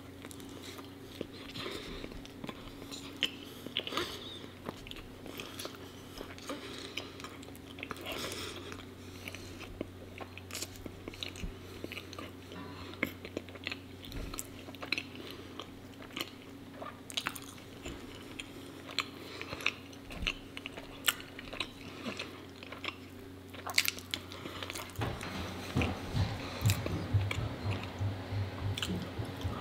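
Close-miked eating of raw honeycomb on soft bread: a bite at the start, then sticky, wet chewing with many small mouth clicks. Near the end come sips and swallows from a cup.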